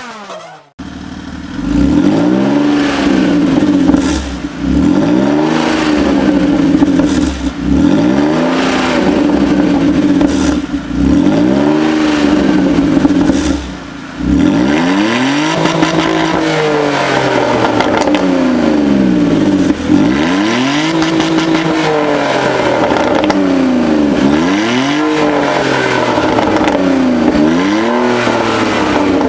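2000 BMW 320i E46's 2.0-litre straight-six, rear muffler removed, revved over and over through the open exhaust. Each blip rises and falls in pitch, one every two seconds or so, coming closer together in the second half.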